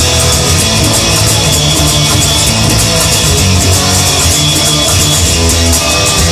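Rock music without vocals: distorted electric guitar over bass and drums with a steady beat.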